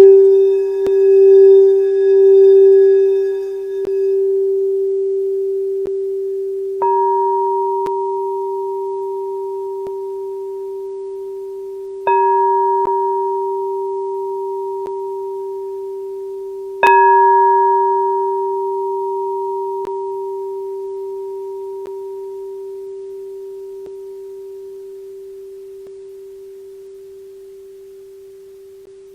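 Singing bowls in a sound bath: a low bowl's steady tone, pulsing for the first few seconds and then ringing on as it slowly fades, while a higher bowl is struck three times, about five seconds apart, each strike ringing and dying away.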